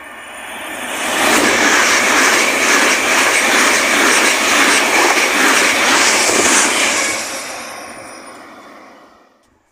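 Electric multiple-unit passenger train running through the platform at speed: the rush builds over about a second, stays loud for some six seconds with a regular beat of wheels on the rails, then fades away.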